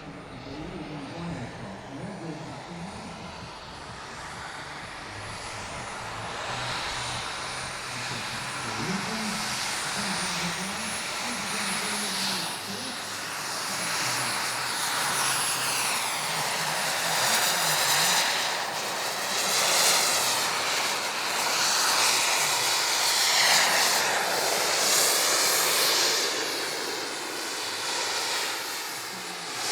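Kingtech K320 jet turbine of a large RC model jet running: a thin high-pitched whine over a rushing jet noise that grows steadily louder. In the second half the rush swells and fades with a sweeping, phasing sound as the jet passes.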